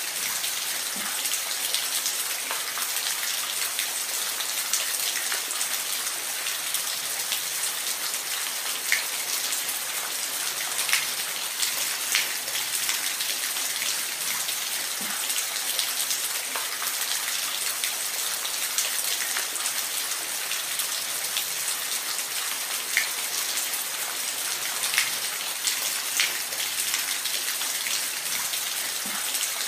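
Steady rain falling, an even hiss with scattered louder drops ticking and plinking on a surface.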